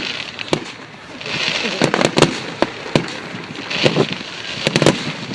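Firework display: irregular sharp bangs and crackling pops from bursting fireworks, with stretches of hiss between them.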